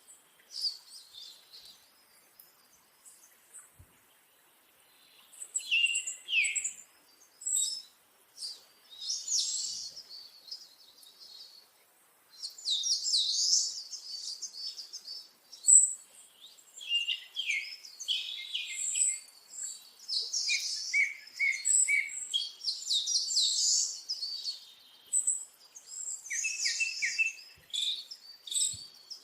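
Birds chirping and trilling in bursts of quick, high-pitched notes, several calls overlapping at times.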